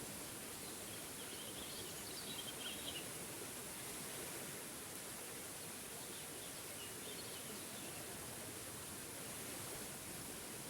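Steady rushing of a small forest waterfall, with a bird chirping faintly in two short bursts, about two seconds in and again about seven seconds in.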